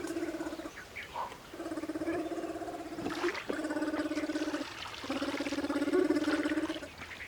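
Male spectacled bear calling while courting a female: rapidly pulsing, pitched calls in about four stretches, each up to about two seconds long, with short pauses between.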